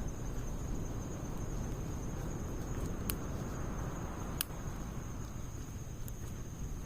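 Firewood and pine needles burning in a Snow Peak fire stand: a low steady rustle of flames with sharp crackling pops, the loudest about three and four and a half seconds in.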